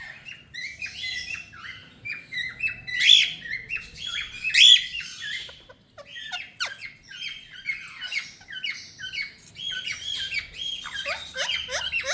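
Parrots chirping and squawking in a rapid, continuous chatter of short high calls, with two louder squawks about three and four and a half seconds in and a brief lull around the middle.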